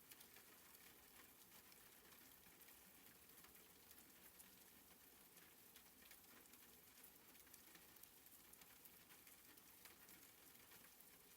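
Faint soft rain: an even hiss of rainfall with scattered light drop ticks.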